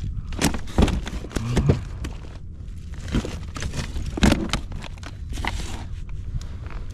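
Irregular knocks and clatter on a fishing boat, about a dozen sharp hits, heaviest in the first two seconds and again around four seconds in, over a steady low rumble.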